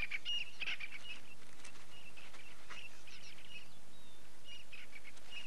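Birds calling: many short, high chirps in quick succession over a faint steady hiss.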